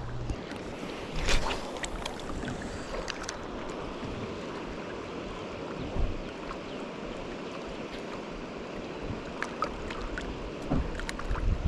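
Steady wash of moving water with wind on the microphone, and a few light knocks.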